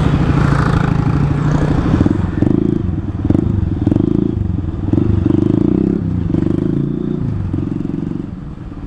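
Exhaust note of a Honda CRF 150L single-cylinder engine through a Tridente F19 full-system exhaust with its honeycomb baffle ground out, the bike running and the note surging and easing several times. The sound fades near the end.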